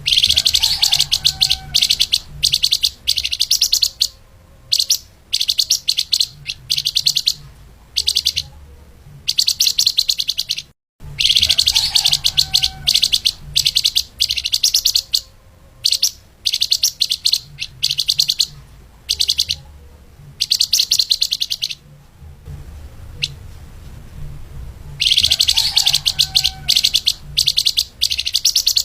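Flamboyan (lemahan) songbird singing a fast, tightly packed, high chattering song in repeated bursts of a second or two, with short pauses between them. The sound drops out completely for a moment about eleven seconds in.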